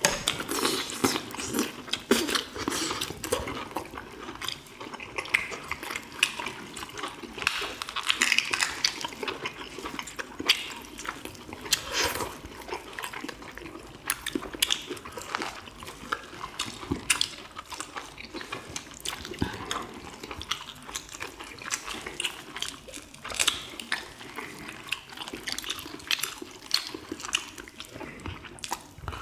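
Close-miked eating sounds: people biting and chewing boiled chicken meat off the bone, with lip smacks and many short, irregular clicks.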